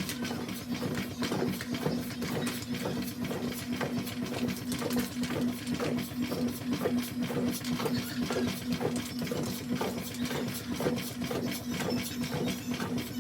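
Washing machine running: a steady motor hum with a regular swishing pulse about two or three times a second.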